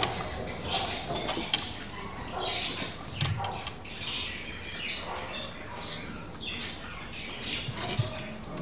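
Birds squawking and chirping in short, irregular calls, with a couple of soft knocks.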